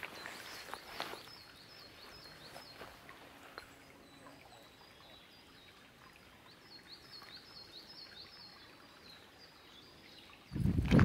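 A small songbird singing twice, each time a quick run of short, high, down-slurred notes, over a faint outdoor background with a few footsteps at the start. A sudden loud noise cuts in just before the end.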